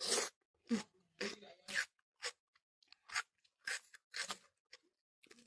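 Close-miked chewing of soft fried tofu in watery chili sauce: a run of short, wet mouth sounds and smacks, about two a second and irregularly spaced.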